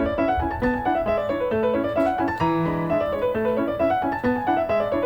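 Background music: a piano playing a quick, busy run of notes.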